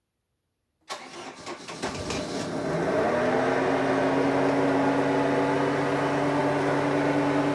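Mercury 3.0 L four-cylinder marine engine cranked on the key with no throttle, catching about a second in and settling into a steady idle about three seconds in. It starts quickly and runs smoothly, a sign of an easy, healthy start.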